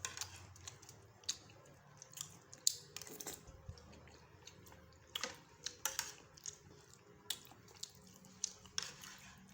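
A person eating sate padang close to the microphone: wet chewing with irregular mouth smacks and clicks.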